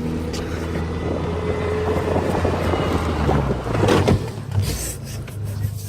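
Car engine with chopped mufflers running with a steady low note, a short burst of rushing noise about four seconds in, then settling to a lower, quieter idle.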